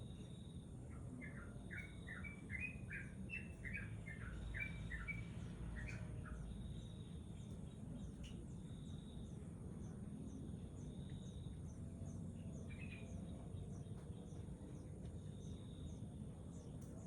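Eurasian tree sparrow nestling begging from inside the nest: a quick run of about a dozen short chirps, then a few more chirps later on. A faint, steady series of high insect chirps runs underneath.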